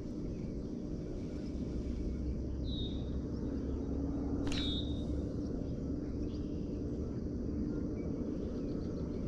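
A bird gives two short, high whistles that fall in pitch, about three and four and a half seconds in, over a steady low hum.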